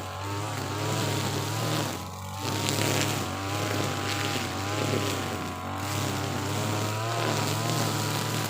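Two-stroke brush cutter with a nylon trimmer head running at full throttle while cutting thick grass. The engine note wavers up and down as the load changes, with a brief dip about two seconds in.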